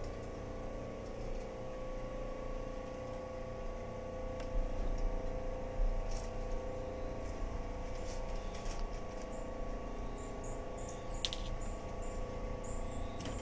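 Refrigerator humming steadily, with a few light clicks and taps over it.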